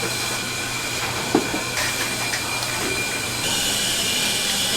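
Steady mechanical hum with a hiss. A brighter, higher hiss joins about three and a half seconds in.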